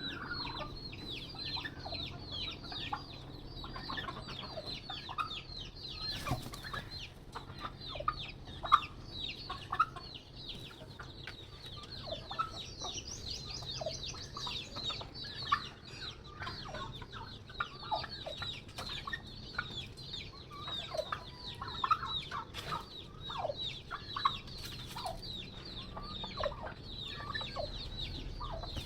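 Backyard flock of turkeys and hens calling over one another: a steady chatter of short, high, falling chirps, with scattered lower clucks and squawks.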